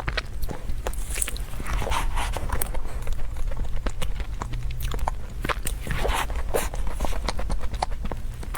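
Close-up eating sounds: chewing and biting with many small clicks and smacks.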